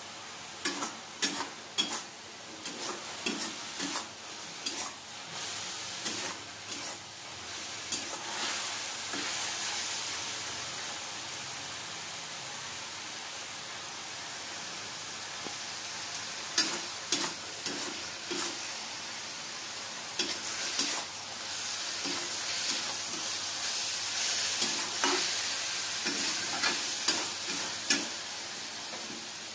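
Mushrooms sizzling and frying in a wok while a metal spatula stirs them. The spatula scrapes and clacks against the pan in two bouts, over the first several seconds and through the second half. In between, the sizzling carries on alone.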